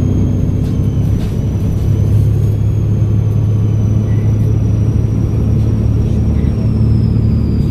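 Volvo B7RLE bus's six-cylinder diesel engine running steadily with a low hum, over which the turbocharger's thin, high whistle slowly falls in pitch.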